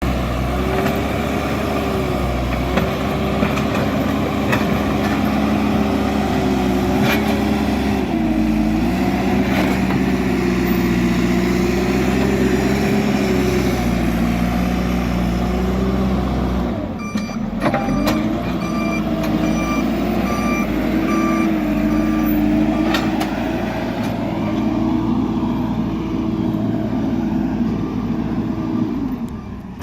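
JCB backhoe loader's diesel engine running under working load, its pitch dipping and rising. A little over halfway through, its reversing alarm beeps steadily for several seconds.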